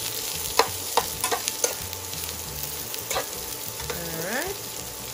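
Shredded cabbage sizzling in hot oil in a nonstick pan while being stirred with a metal slotted spatula, with several clacks and scrapes of the spatula on the pan, most of them in the first two seconds.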